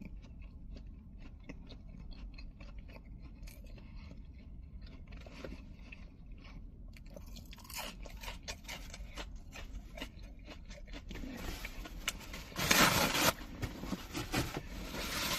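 A person biting into and chewing a grilled chicken biscuit close to the microphone, with many small crunching clicks. A louder burst of noise comes about two-thirds of the way in.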